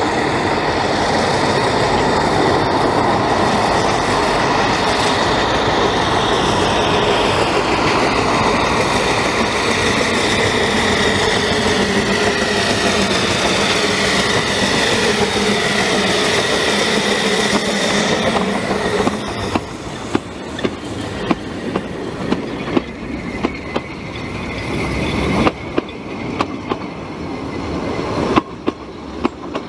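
Narrow-gauge train running on the Ffestiniog Railway. For the first two-thirds there is a loud rumble with high wheel squeals that slide down in pitch. Then it drops to a quieter run with irregular sharp clicks from the wheels over rail joints.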